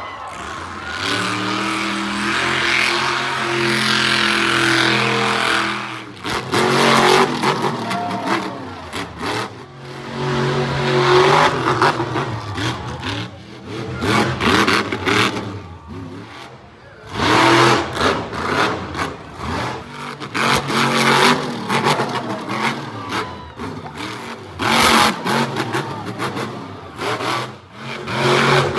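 Monster truck engine running at high revs. It holds one steady note for the first several seconds, then revs up and down in repeated choppy surges with brief sharp cracks.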